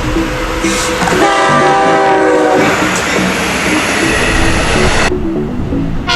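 Long Island Rail Road M-9 electric train sounding its horn for a grade crossing: one chord blast of about a second and a half, with the next blast starting just at the end, over steady train running noise.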